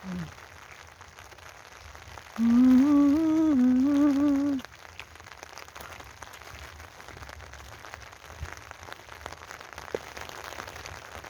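A voice hums a short wordless tune for about two seconds, starting a couple of seconds in, over rain falling steadily with a light pattering.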